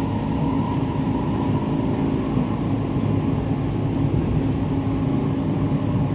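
Interior running noise of an SMRT C651 train travelling at speed: a steady rumble of wheels on rail with a steady low hum under it.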